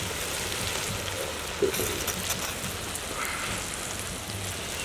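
Shredded vegetables and egg sizzling steadily in a large hot metal wok, with a brief knock a little under two seconds in.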